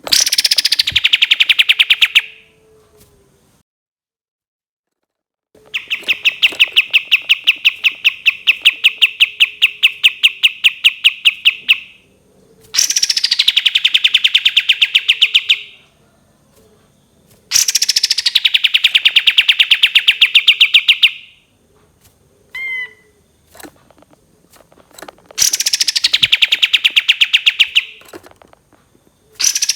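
Kapas tembak songbird calling in long, rapid rattling trills, each opening with a sharp falling note; five trills come with short pauses between them, the second the longest, and a brief chirp falls in one gap.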